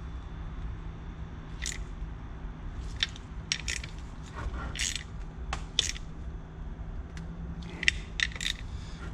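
Hand tools working on the engine's cover bolts: scattered short metallic clicks and clinks, some in quick clusters, over a steady low hum.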